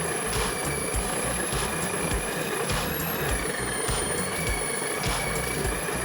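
Homemade drum sander's motor running with a steady high whine whose pitch dips slightly about three seconds in, with a faint regular knock a little under twice a second.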